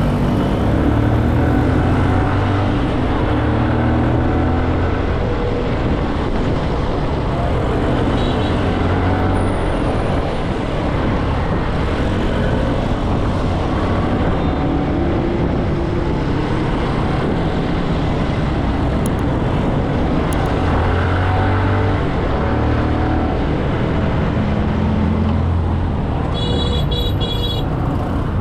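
Motorcycle engine running at road speed with its revs rising and falling, under a steady rush of wind noise on the camera microphone, amid city traffic. A vehicle horn sounds briefly near the end.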